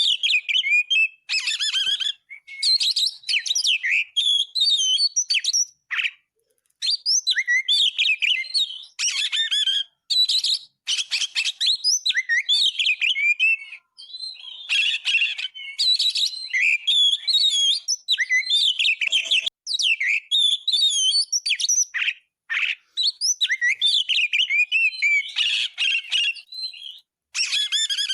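Oriental magpie-robin (kacer) singing in a rapid, varied stream of whistles, trills and chirps, packed with changing phrases and broken by brief pauses.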